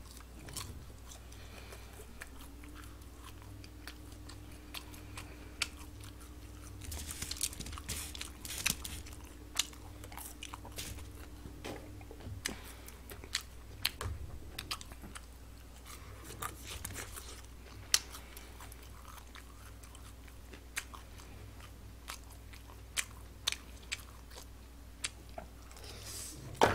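A person chewing and biting Chinese takeout food, with many sharp clicks scattered through the chewing and a few noisier mouthfuls.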